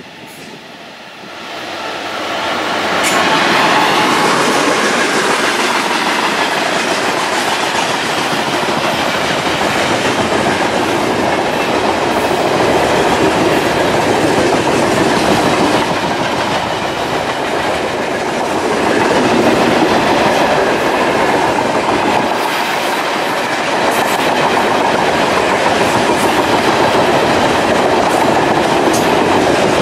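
A 2TE10M twin-section diesel locomotive, with its two-stroke opposed-piston diesel engines, passing close, the sound growing loud over the first few seconds. It is followed by a long freight train of tank and hopper wagons rolling steadily past, with the clickety-clack of wheels over rail joints.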